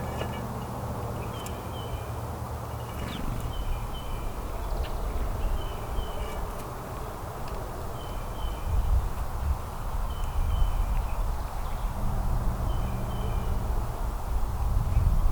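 A small bird calling over and over, a short double chirp roughly every second and a half, over a steady low rumble.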